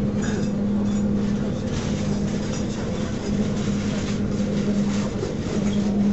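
SNCF passenger train running at speed, heard from inside the carriage: a steady rumble of wheels on rail with a low steady hum that drops out briefly twice.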